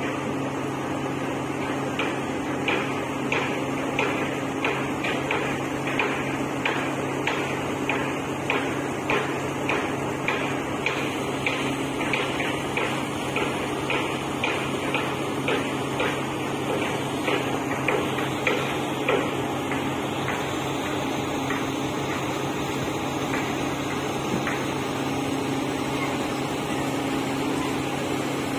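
Dredger's engine running steadily, with a regular knocking about twice a second that stops about two-thirds of the way through, leaving the steady engine hum.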